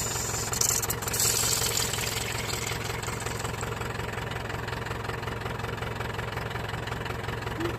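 Diesel engine of a Case 752 double drum roller running steadily at low revs, with a high hiss over it for about the first second.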